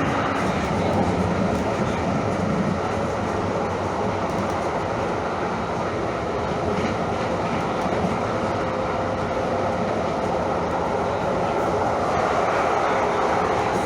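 Train running on rails: a steady, even rumble and rail noise.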